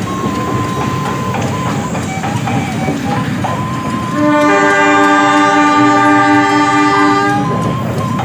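KAI CC 203 diesel-electric locomotive and its passenger coaches passing, a steady rumble with wheel noise on the rails, then the locomotive's air horn sounding one long multi-note blast from about four seconds in until shortly before the end.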